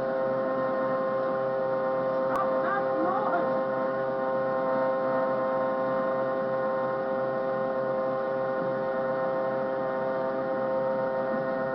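A steady hum made of several fixed tones, with a brief click and a few faint short chirps about two and a half seconds in.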